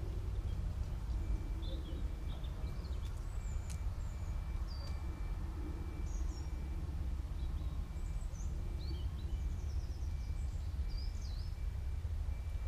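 Small birds chirping and trilling in short calls at irregular intervals over a steady low rumble.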